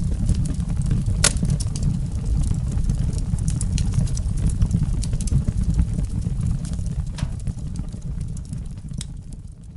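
Wind buffeting the microphone as a steady rumbling noise, with scattered crackles and ticks, fading out near the end.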